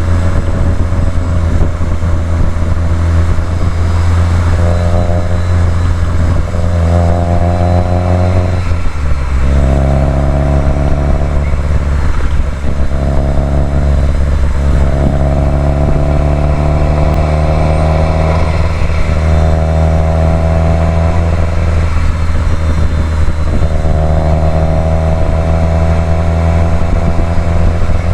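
Subaru WRX STI's turbocharged flat-four (boxer) engine under way on a winding road, pulling up in revs and easing off again about six times as the car drives through the bends.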